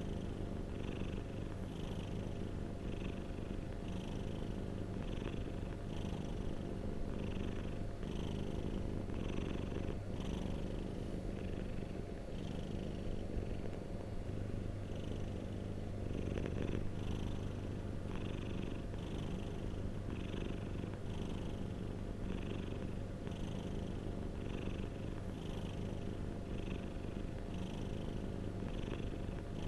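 Domestic cat purring steadily: a continuous low rumble with a soft airy rasp that pulses with each breath, about every two-thirds of a second, easing off for a few seconds midway.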